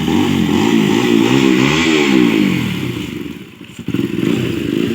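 Motorcycle engine running just after being bump-started with a dead battery, revved up and down, dropping off briefly about three and a half seconds in before picking up again.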